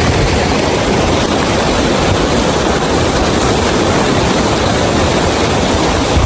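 Loud, steady rush of fast-flowing water, a stream or falls churning without a break.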